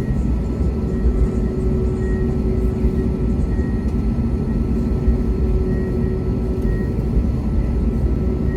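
Steady cabin noise inside an Airbus A321neo on the ground after landing: an even engine rumble with a steady hum above it, typical of taxiing at low power.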